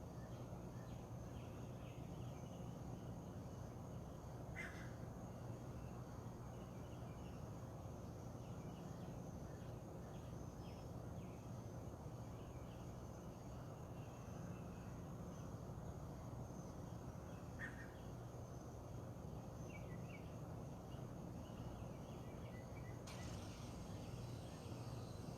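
Faint early-morning birdsong: scattered distant chirps, with a clearer short call twice, about five seconds in and again about eighteen seconds in, over a steady low hum. A steady hiss comes in near the end.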